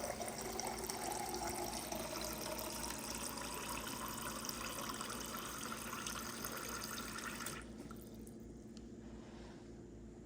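Water running from a refrigerator's water dispenser, filling a container, starting abruptly and cutting off about seven and a half seconds in. This is the dispenser flowing again after the repair.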